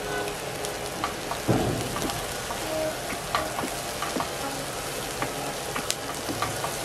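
Crumbled longganisa sausage and diced onion sizzling in oil in a cast-iron skillet, with small taps and scrapes of a spatula stirring them.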